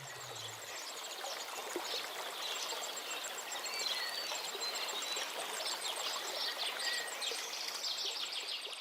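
Waterside ambience: a steady rushing like running water, with small birds chirping and trilling over it.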